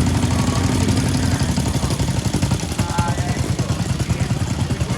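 Douglas SW5 vintage speedway motorcycle's flat-twin engine running steadily with a rapid, even beat, not revving up.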